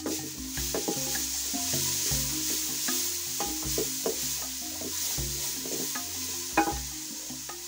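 Onions sizzling as they fry in a metal cooking pot, stirred with a wooden spoon that scrapes and knocks against the pot. One sharper knock comes near the end.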